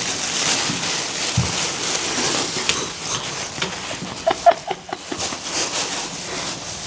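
Batter sizzling in a hot pan as a steady hiss, with scattered light clicks and knocks of utensils.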